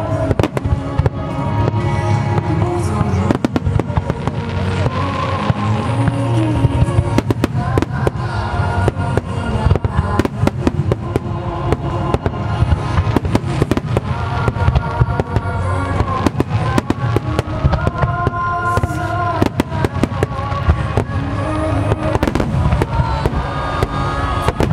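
A dense barrage of firework shells bursting, many bangs in quick irregular succession throughout, with music playing under them.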